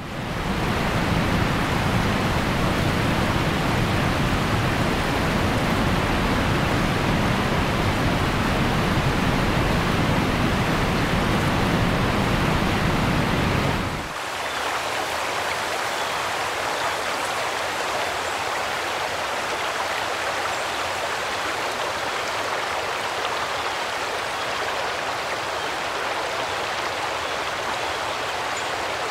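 Heavy rain pouring down, a steady dense hiss with a deep rumble underneath. About halfway through the rumble drops out abruptly, leaving the hiss of rain falling on a flooded road and storm water rushing across it.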